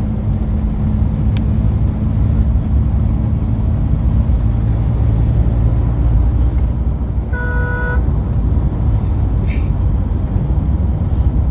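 Steady engine and road rumble from inside a moving car, with a single short car-horn toot about seven seconds in.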